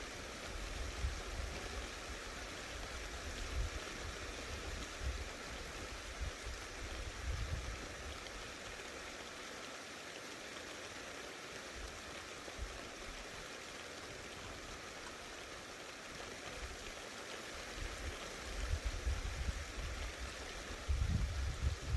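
Steady rain falling in a thunderstorm, an even hiss of water. Low rumbling comes and goes, strongest near the end.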